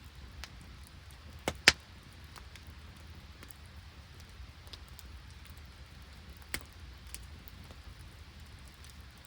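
Steady patter of rain and sleet with scattered sharp crackles from an open wood campfire, the loudest two close together about a second and a half in and another past the middle.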